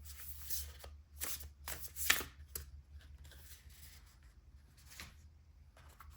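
Tarot cards being handled and laid out: a quick run of papery snaps and rustles in the first couple of seconds, then a few softer touches.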